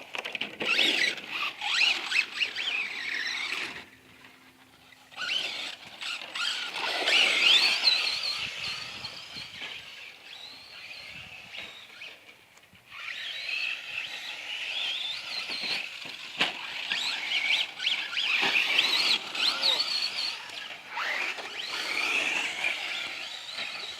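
Electric RC short course trucks driving hard, their motors whining high and sliding up and down in pitch with the throttle. The whine comes in bursts, dropping away about four seconds in and again around twelve seconds in before picking back up.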